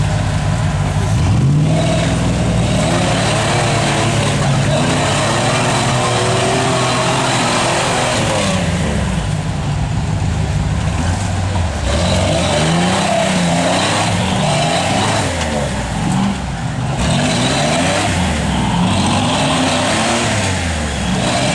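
Toyota rock crawler's engine working under load as it climbs over railroad ties. It runs fairly steady at first, then revs up and down over and over in the second half.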